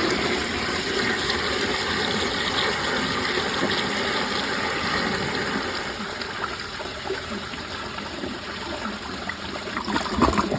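Glacier Bay Power Flush toilet flushing from a mid-height tank, with its vacuum-assist hole plugged: a steady rush of water that eases off after about six seconds and swells briefly again near the end.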